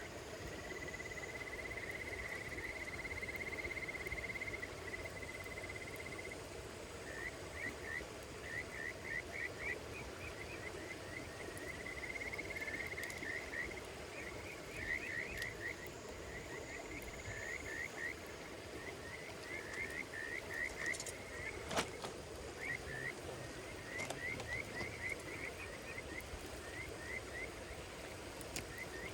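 Chirping calls of a small creature at night: a steady high trill for about six seconds, then runs of short quick chirps. A campfire crackles underneath, with one sharp pop about two-thirds of the way through.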